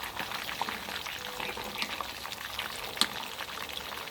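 Whole giant gourami deep-frying in hot oil: a steady sizzle full of small crackling pops, with one sharper pop about three seconds in.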